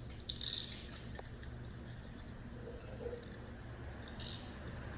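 Light metallic clicks and rattles from a piston ring compressor as it is released and adjusted around a piston, over a steady low hum. The clicks come in a short cluster near the start and again about four seconds in.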